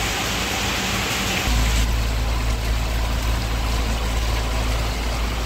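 Basa fish cake sizzling as it deep-fries in a pan of hot oil, a steady hissing crackle. A deep low rumble joins in about a second and a half in.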